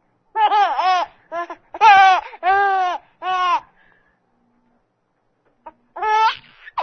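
Baby vocalizing: a run of short, high-pitched calls that bend up and down in pitch, a pause of about two seconds, then two more calls near the end.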